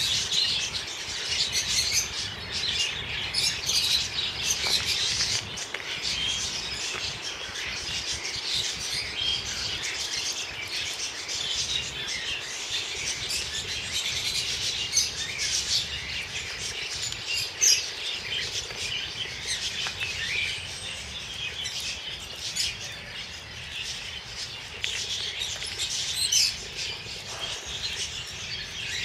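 Small birds chirping and twittering in a busy, continuous chorus of short, high calls.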